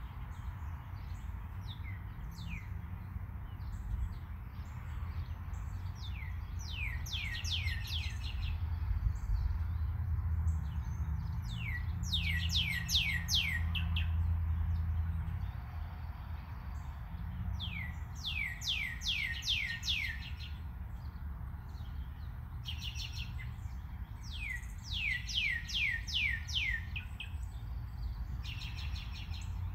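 A songbird sings repeated phrases every five or six seconds, each a quick run of five or six high notes sliding downward. A steady low hum runs underneath.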